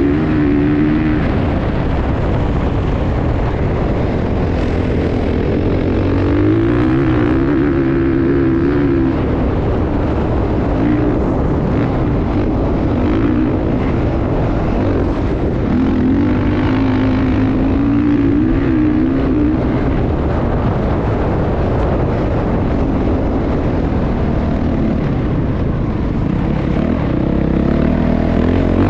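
Motocross bike engine running loud at fairly steady revs, its pitch wavering slightly up and down, over a constant rushing noise.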